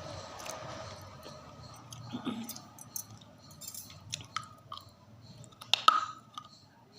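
Close-up chewing and crunching of something brittle: soft, steady chewing at first, then a series of sharp crisp cracks, the loudest two near the end.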